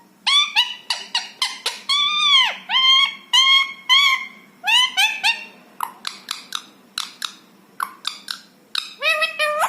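Indian ringneck parakeet calling and chattering: a quick run of short, high, squeaky notes with a few longer arching calls between about two and four seconds in.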